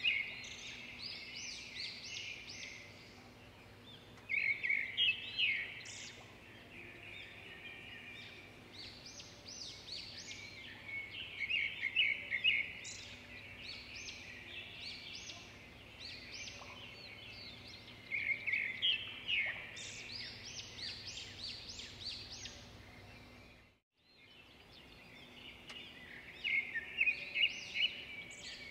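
Birds singing: phrases of quick high chirps repeat every few seconds over a faint steady low hum.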